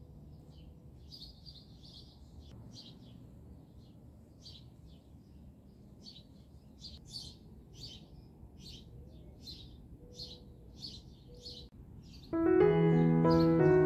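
Small birds chirping in short, repeated calls, about two a second. Piano music comes in abruptly near the end and is the loudest sound.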